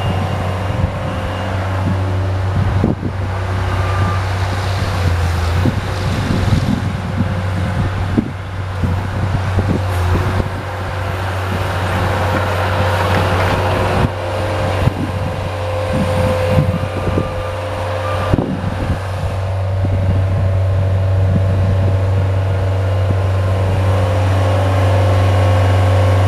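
Engine running steadily under load while clearing snow, with irregular knocks and clattering from the machine and its plow or bucket working.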